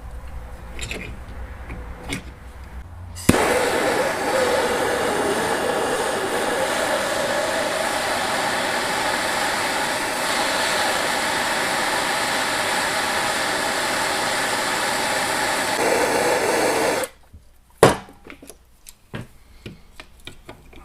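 A handheld electric power tool starts about three seconds in, runs steadily for about fourteen seconds and stops suddenly; it is working at a broken-off cap bolt in a golf-cart starter generator's brush cap. Before it starts there are a low hum and a few light knocks, and after it stops come small clicks and taps.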